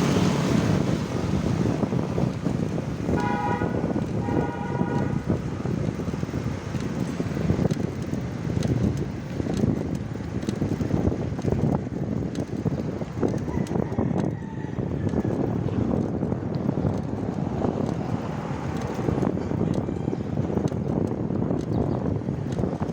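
Road traffic noise with wind on the microphone, and a vehicle horn honking twice in quick succession about three to five seconds in.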